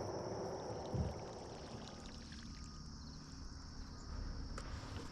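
Quiet water trickling and lapping around a fishing kayak, under a steady high insect buzz, with a soft knock about a second in.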